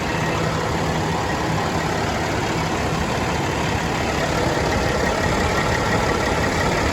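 Freshly rebuilt Caterpillar C15 diesel engine in a Kenworth W900 running steadily on a chassis dyno, with no revving or change in speed.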